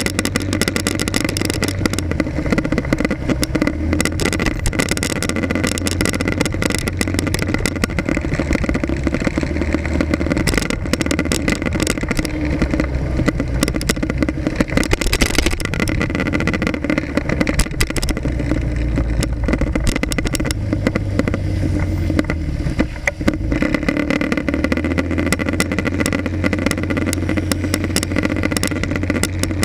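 Motorcycle engine running through traffic, picked up by an action camera mounted on the front of the bike; the engine note shifts up and down with speed, with a brief drop about 23 seconds in.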